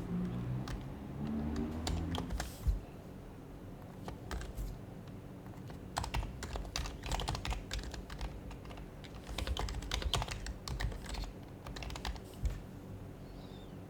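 Typing on an HHKB Professional HYBRID Type-S keyboard with its silenced Topre switches: irregular runs of soft keystrokes broken by a pause of a few seconds, busiest in the second half.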